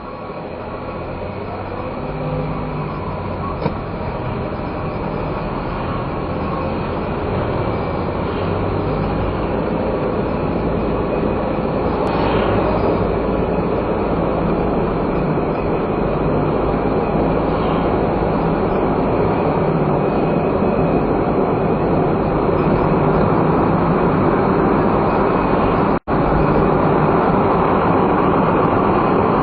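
Cabin noise of a non-turbo kei car under way: engine and tyre rumble that grows steadily louder, then holds. The sound cuts out for an instant about three seconds before the end.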